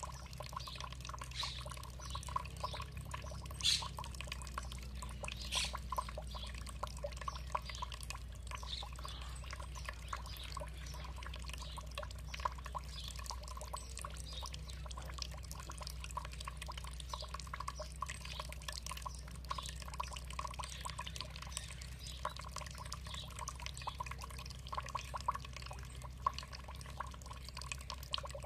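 Running water trickling and dripping: a steady flow with many small drips and splashes.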